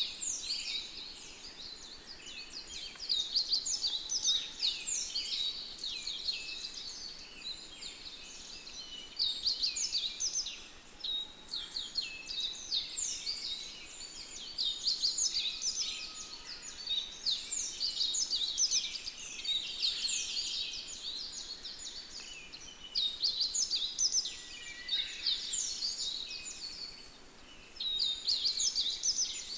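Many small birds chirping and singing together in a dense, continuous chorus of quick, high, downward-sweeping notes.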